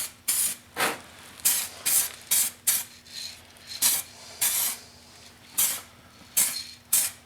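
Aerosol spray can of base-coat paint hissing in about eleven short bursts, quick light passes with brief pauses between them.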